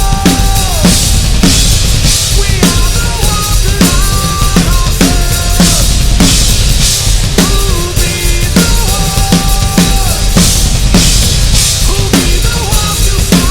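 Drum kit played along to a metal/rock band track: a steady kick and snare beat with recurring cymbal crashes, over the band's music with held, gliding melodic notes.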